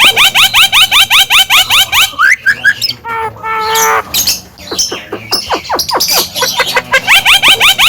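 Male Javan myna calling loudly in fast runs of short rising notes, about seven a second, broken about three seconds in by a longer, steadier call, before the rapid run starts again near the end.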